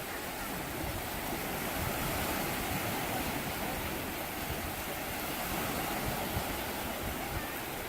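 Sea surf washing onto a beach: a steady rushing wash of waves that swells a little a couple of seconds in.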